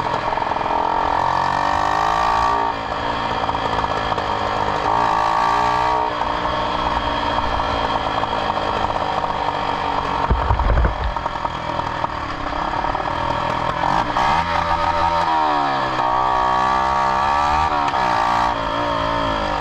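Yamaha YZF-R125's single-cylinder four-stroke engine running through its exhaust, revving up and down several times, with a few short pops from the exhaust.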